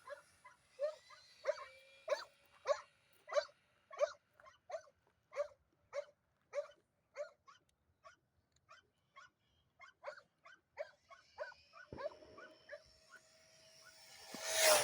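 A dog barking over and over, about one to two barks a second, the barks growing fainter after the middle. Near the end a steady thin whine comes in and a short, louder rushing noise.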